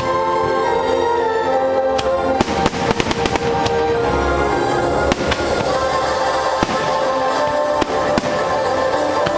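Fireworks bursting in quick succession over loud show music with held tones, the bangs coming thickest about two and a half seconds in.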